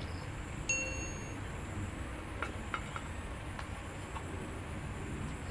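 Eating sounds at a table: a short ringing clink of a utensil or dish under a second in, then a few small sharp clicks and cracks, over a steady low hum.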